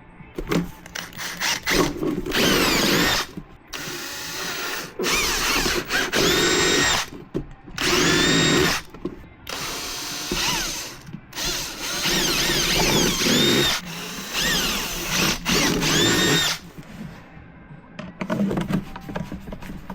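Power drill run in repeated bursts of a second or two, about eight times, its motor whine rising as it spins up and falling as it winds down each time.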